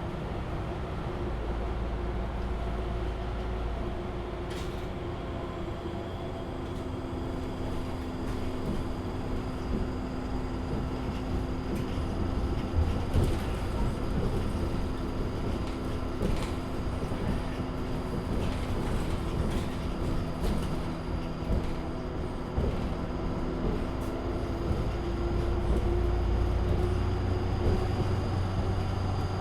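Inside a MAN Lion's City city bus while it drives: a steady drone from the engine and drivetrain over road rumble, with a few short rattles. The low rumble grows louder near the end.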